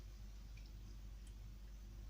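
Faint steady low hum with two light ticks, about half a second and a second and a quarter in.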